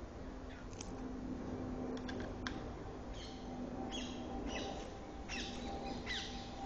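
Birds calling with repeated short, sweeping chirps that come thicker from about three seconds in, over a faint steady low hum. A few sharp clicks sound about one and two seconds in.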